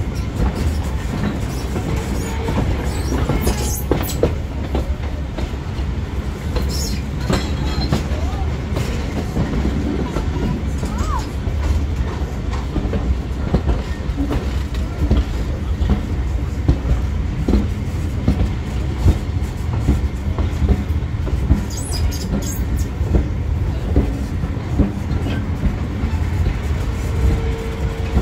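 Diesel-hauled heritage passenger train running along the line: a steady low rumble with scattered clicks from the wheels going over rail joints.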